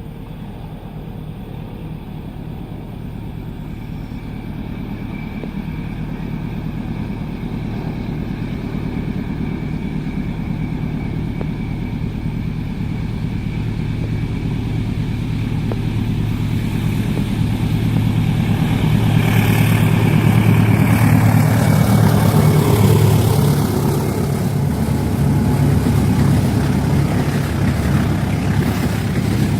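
Diesel locomotive of a passenger train approaching at speed. Its low engine drone grows steadily louder over about twenty seconds, joined by rising wheel and rail noise as it comes close.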